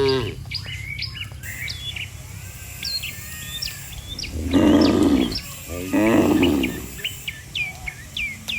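Small birds chirping over and over in short high notes, with two brief, louder low calls from cattle about halfway through, a second apart.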